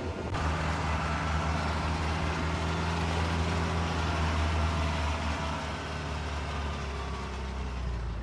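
Dodge M37 military truck's engine running steadily at an even pitch, a low, constant drone.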